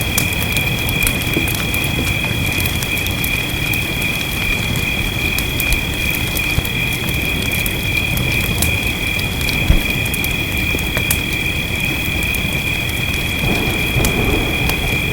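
Fireplace crackling with small sharp pops scattered throughout, over a steady rumble of rain. Two steady high-pitched tones are held throughout, and the rain thickens near the end.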